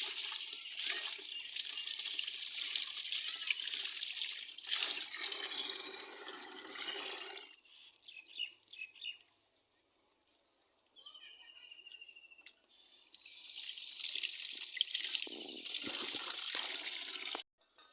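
Water pouring and splashing over a person bathing, in two spells with a quiet gap of several seconds between them; the second spell stops suddenly near the end.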